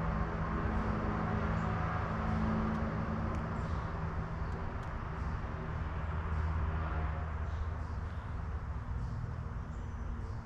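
Steady low mechanical hum and rumble, with a few faint ticks high above it.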